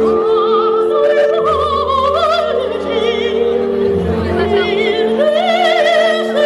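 Operatic singing with orchestral accompaniment: sustained notes held with wide vibrato over a steady orchestral backing.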